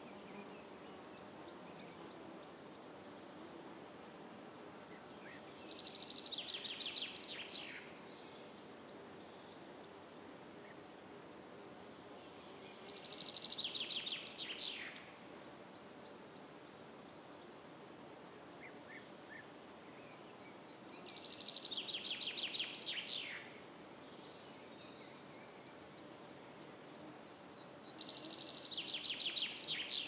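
Songbird singing outdoors: a short, fast trilled phrase that drops in pitch at its end, repeated four times about seven to eight seconds apart, with softer high chirping between the phrases.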